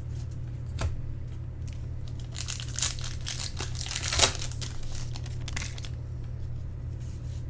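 Foil wrapper of a baseball-card pack crinkling and tearing as it is opened, in a cluster of crackles about halfway through, the loudest near the end of that cluster. A single sharp tick comes about a second in, over a steady low hum.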